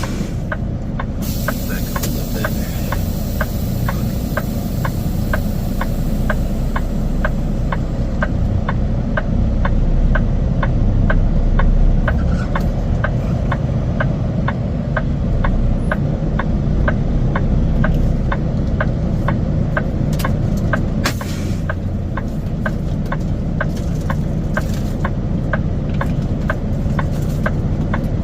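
Semi truck's diesel engine running at low speed, heard from inside the cab, with a steady clicking about twice a second. A hiss of air starts about a second in and fades over several seconds.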